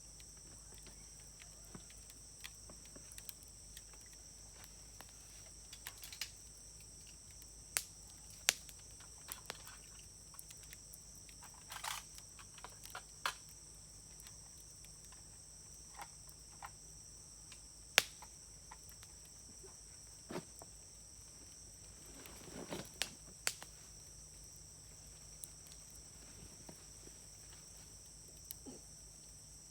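Wood fire crackling, with sharp pops scattered through it, the loudest about 18 seconds in and a short run of crackles around 22 to 24 seconds. Insects trill steadily and high in the background.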